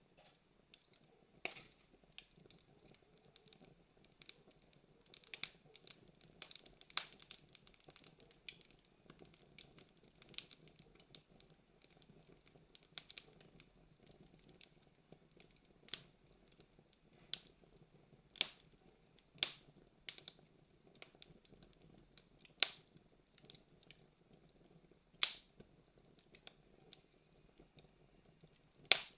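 Campfire burning: irregular sharp pops and snaps of burning wood, about ten louder ones, over a faint steady low hiss of the flames.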